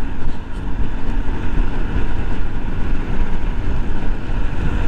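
Yamaha 125cc single-cylinder motorcycle riding steadily on a wet road, heard from the rider's camera, with wind rushing over the microphone.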